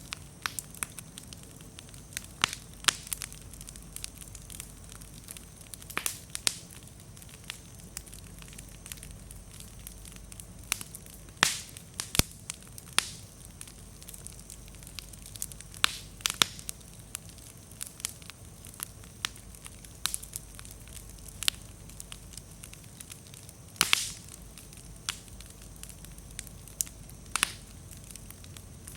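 Wood bonfire of slightly damp firewood crackling, with irregular snaps and now and then a louder sharp pop from the burning logs, over a steady low hum.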